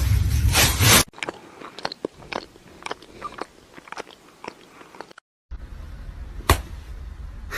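A loud rhythmic whooshing noise with a deep rumble cuts off about a second in. Irregular crisp crunching clicks follow for about four seconds. After a brief gap, a low rumble carries a single sharp click.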